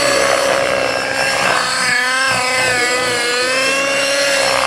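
Radio-controlled model helicopter running in flight, a steady high-pitched engine and rotor whine whose pitch rises and falls slightly.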